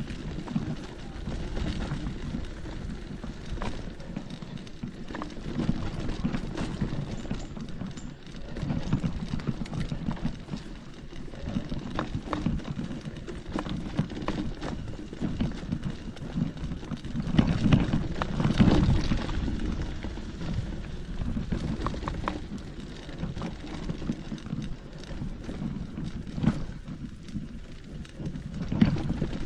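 Footsteps of a hiker walking along a forest trail: an irregular run of steps with scuffs and small clicks.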